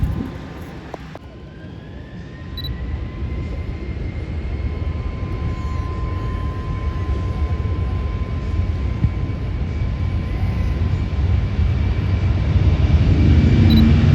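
Jet airliner's engines: a low rumble with a steady high whine that rises slightly in pitch and grows louder.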